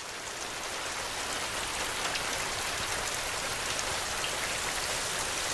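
Steady rain falling on a surface: an even hiss with scattered fine drop ticks. It fades up over about the first second.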